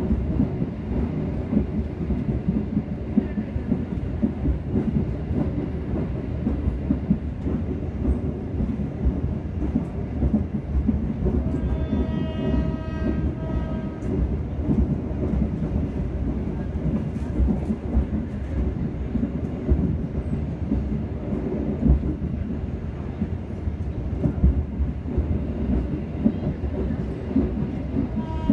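Srilelawangsa passenger train running at speed, heard from inside the carriage: a steady low rumble with the wheels clattering over the rails. Near the middle a pitched tone sounds for about two seconds.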